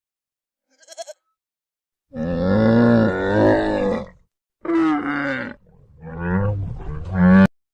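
A large animal calling: a short faint call about a second in, then three loud, drawn-out, pitched calls one after another.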